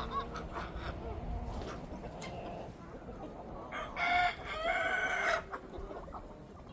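Chickens clucking, with a rooster crowing loudly about four seconds in, a long crow in two parts.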